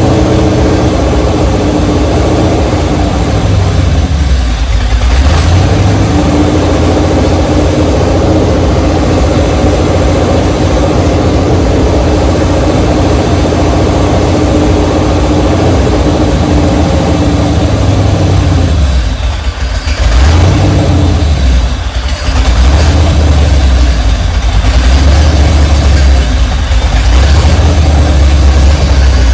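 A 395-cubic-inch engine running on an engine dyno, fed by a new EFI test rig, loud and steady, with its speed shifting up and down several times, most around twenty seconds in, where the level briefly dips twice.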